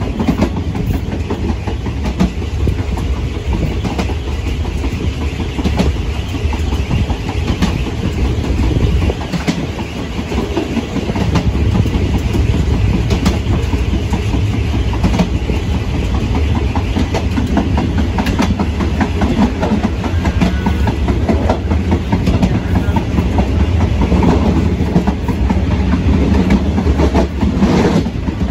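Passenger train carriage running along the track, its wheels clacking over the rail joints above a steady rumble, heard from the open rear end of the last car.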